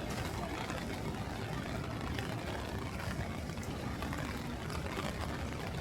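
Steady wash of wind and rain on a city street, with gusts rumbling on the microphone.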